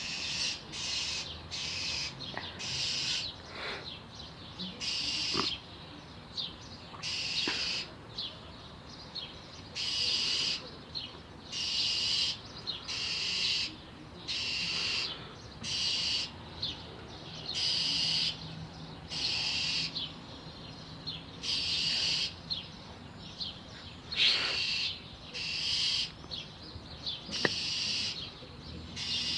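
A bird giving harsh, scratchy scolding calls over and over, about one a second: an angry alarm or mobbing call aimed at cats.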